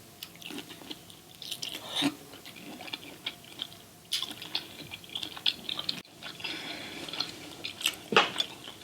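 Close-miked wet chewing and lip-smacking of someone eating sauce-drenched seafood, in irregular small clicks and squishes, with a louder smack near the end.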